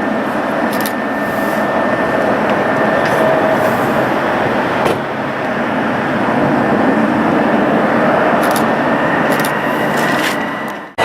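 Jet airliner engines running with a loud, steady roar and faint whining tones through it; the sound cuts off abruptly near the end.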